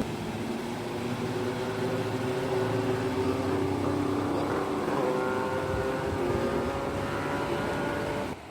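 A motor running steadily over a background of rushing water, its hum drifting slowly in pitch and rising a little about halfway through. It cuts off suddenly near the end.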